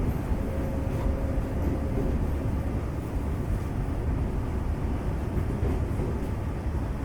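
Steady low rumble inside the passenger car of a Semboku Rapid Railway 5000 series electric train, with the air conditioning running. A faint steady tone sounds briefly near the start.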